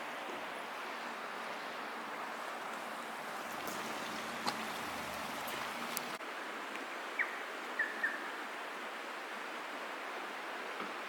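Steady rushing of a creek, with a few short chirps about halfway through.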